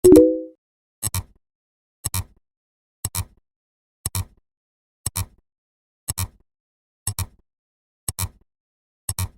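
Short, sharp click sound effects at a steady pace of about one a second, some of them doubled. At the start is a brief low pitched tone of several notes sounded together, which fits the rhythm of a number being counted off at each beat.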